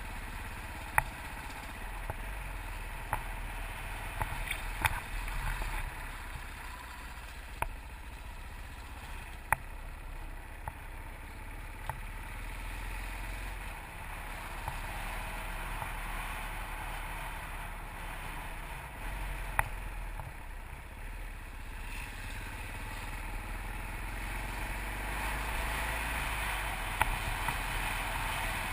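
Yamaha TT600RE's single-cylinder four-stroke engine running steadily while the bike rides along a lane. About half a dozen sharp knocks are scattered through the sound.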